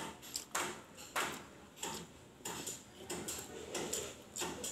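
Close-up eating sounds during a mukbang: repeated chewing and mouth smacking, a short noisy burst about every half second.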